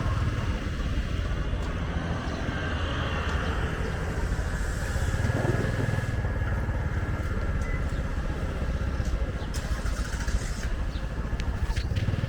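Steady low rumble of motor-vehicle traffic, with a few short clicks in the second half.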